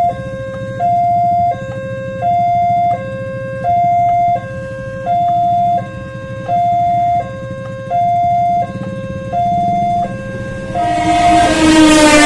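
Railway level-crossing warning alarm sounding a two-tone electronic signal, a higher and a lower tone alternating about every 0.7 s, over a low steady rumble. About 11 seconds in, a much louder multi-tone horn with a slightly falling pitch joins it, typical of an approaching train's horn.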